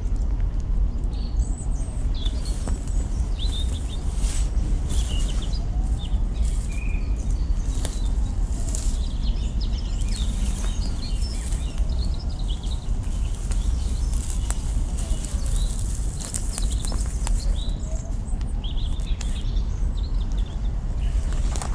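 Campfire with burning branches crackling and popping in irregular sharp snaps over a steady low rumble, while small birds chirp faintly now and then.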